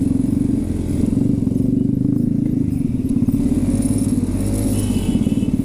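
Motorcycle engine running steadily while riding, a fast, even throb.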